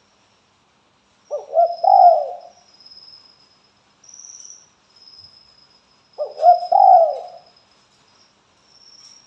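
Spotted dove (tekukur) cooing: two calls about five seconds apart, each a few short notes running into a longer falling coo. A faint, high, steady trill comes and goes behind them.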